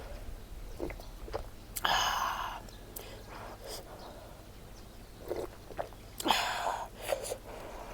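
Close-up eating sounds: a person chewing with small wet clicks and smacks, with two louder short noisy sounds about two seconds and six seconds in.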